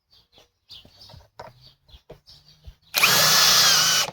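A few faint handling clicks, then about three seconds in a Greenworks Pro cordless hammer drill runs in speed 2, a loud steady motor whine as it bores into wood, for about a second before cutting off suddenly.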